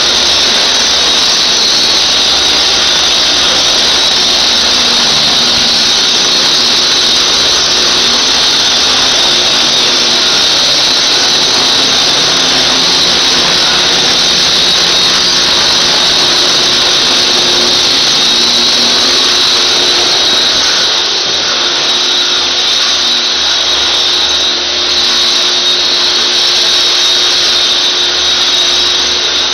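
Dust-extracting floor sanding machine running steadily and grinding the floor surface, a continuous loud hiss with its vacuum whine over a low hum, a little quieter from about two-thirds of the way in.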